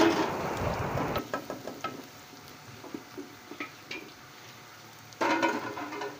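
Chopped onion and garlic sizzling in hot oil in a wok as they fry, stirred with a wooden spatula. The sizzle is loudest in the first second, settles to faint crackles and pops, and swells again briefly about five seconds in.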